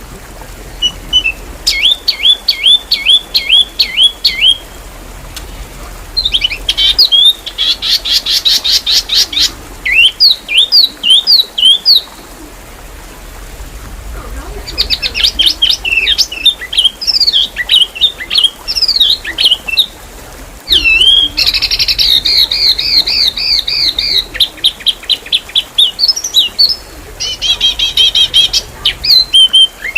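Songbird song in the style of an Indonesian masteran training recording: fast, densely packed phrases of chirps, rapid trills and rising and falling whistles, each burst lasting one to two seconds with short pauses between, and a longer pause near the middle.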